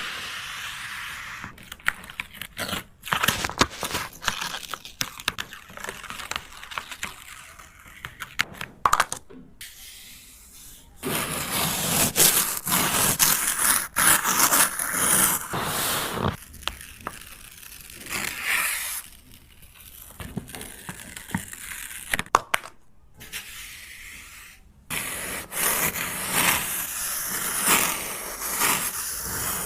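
Scratchy scraping strokes of a drawing or painting tool on paper, coming in stretches of a second or several seconds with short pauses and a few sharp taps between them.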